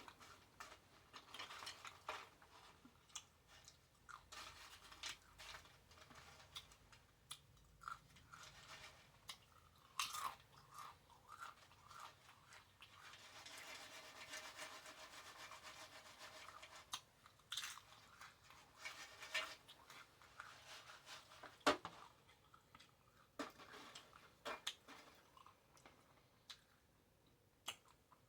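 Faint, close-up chewing of a triple bacon cheeseburger: irregular soft crunches and wet mouth clicks, with a steadier stretch of chewing noise partway through.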